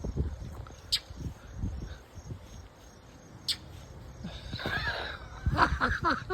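A small bird giving a series of harsh, curving calls from about four seconds in, growing louder near the end, over a low rumble with a couple of sharp clicks earlier. The bird is defending its nest by swooping at a person.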